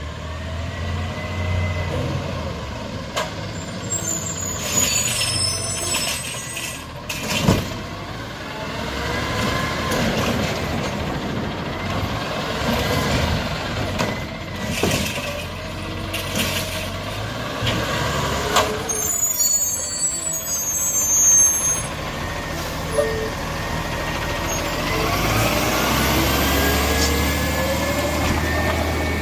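Garbage truck working: diesel engine running with hydraulic whines gliding up and down, several sharp bangs, and high squeals of the air brakes twice. Near the end the engine speeds up, rising in pitch and loudness.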